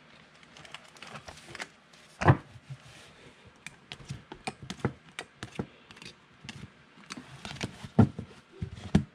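Hands at work on a tabletop: a quick, irregular run of small clicks and taps, with a few louder thumps about two seconds in and again near the end.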